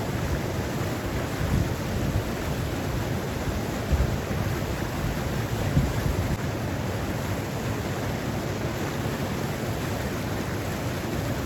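Steady rushing of a flowing stream, with wind buffeting the microphone in a few brief low gusts.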